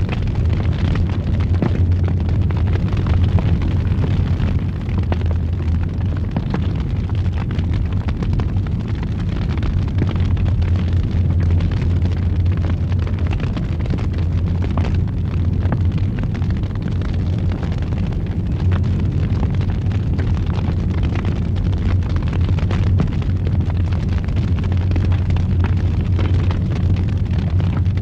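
Fire burning in a fireplace: a steady, deep roar with frequent small crackles and pops scattered through it.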